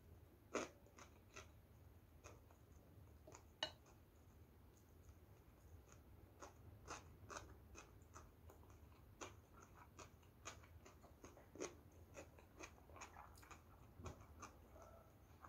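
Faint, close-up chewing of kimbap, the seaweed-wrapped rice roll: a scatter of soft, irregular mouth clicks and smacks, a couple of sharper ones in the first few seconds.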